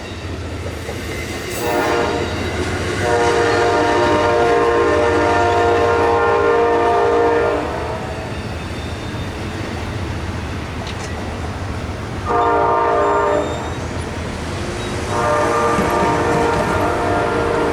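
Amtrak passenger locomotive's chord horn sounding a long blast, then a short one, then another long one: the grade-crossing warning pattern. A steady low rumble of the train runs underneath.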